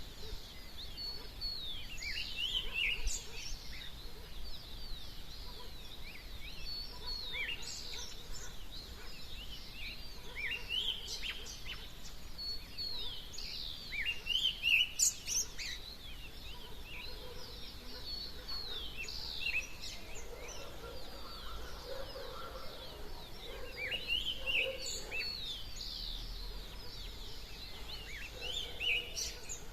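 A dawn chorus of many birds singing at once, with dense, overlapping chirps and quick downward-sliding whistled notes throughout. A lower sound joins in about two-thirds of the way through.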